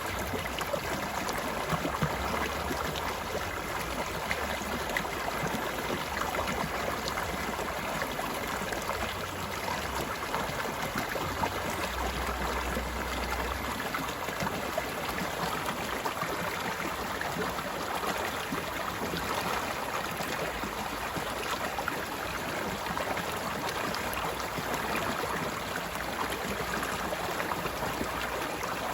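A stream of water flowing steadily, a continuous babbling rush with no breaks.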